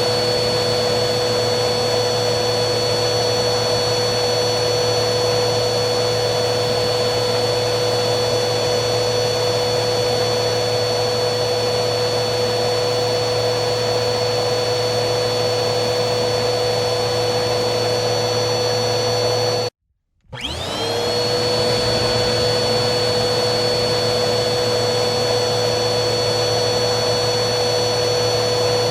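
Vacuum cleaner running steadily: a constant motor whine over a hiss of rushing air. About two-thirds of the way through it cuts out completely for half a second, then starts again with the motor whine rising quickly back up to pitch.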